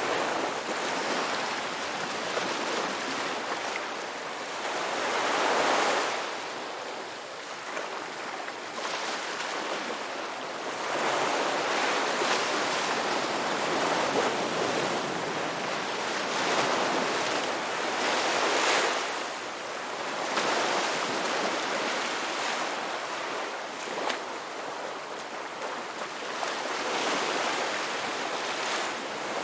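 Ocean waves breaking on a beach in a continuous wash of surf, swelling and easing every few seconds.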